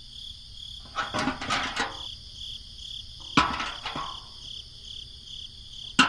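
Steady, evenly pulsing high chirping of insects such as crickets, broken three times by short bursts of small clattering knocks: about a second in, around three and a half seconds, and at the very end.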